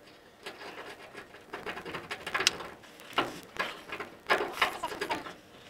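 Hand tools clinking and scraping against the truck's rusty suspension parts: irregular metal clicks and knocks, with a few louder strikes in the second half.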